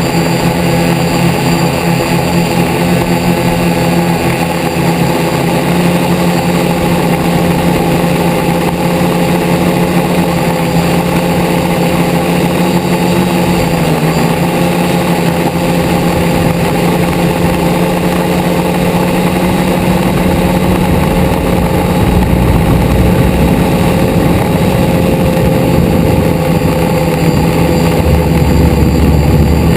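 Multirotor drone's motors and propellers humming steadily, with a pitch that dips briefly about halfway through and shifts again later as the throttle changes, heard close up from the camera mounted on the drone.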